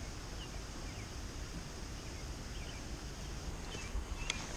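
Outdoor pond-side ambience: a steady low rumble and hiss, with a few faint short bird chirps and a couple of sharp clicks near the end.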